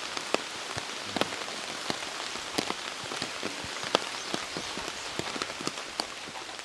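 Steady rain falling, with individual drops landing in sharp, irregular taps over the hiss.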